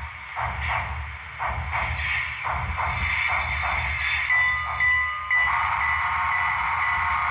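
Digital steam sound from an HO-scale Southern Pacific AC-5 cab forward's Paragon 3 sound decoder: a steady rhythm of exhaust chuffs. About four seconds in, a bell starts ringing, and about a second later a multi-chime steam whistle sounds and is held.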